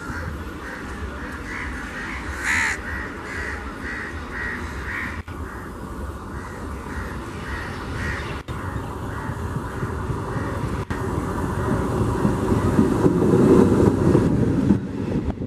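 Electric multiple unit local train approaching and passing close by, its rumble building and loudest near the end as the cars go past. Crows caw repeatedly, about twice a second, through the first half.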